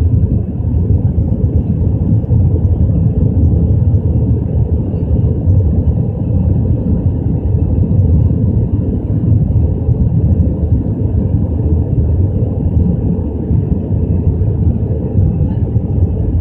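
Steady low rumble of an Airbus A320's engines and rushing air, heard inside the passenger cabin during the climb after takeoff.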